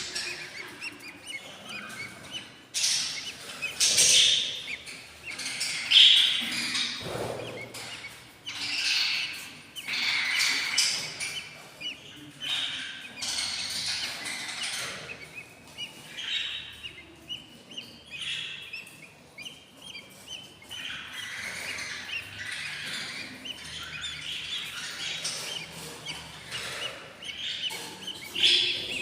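Budgerigar chicks about eight days old chirping over and over inside a nest box, a shrill, insistent chatter typical of hungry chicks begging for food.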